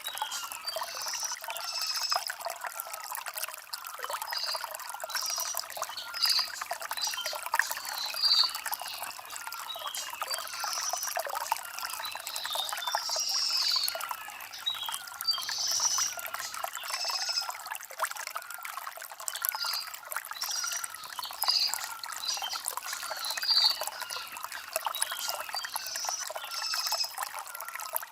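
Shallow stream trickling and splashing over stones in a steady rush, with small birds chirping short high notes about once a second.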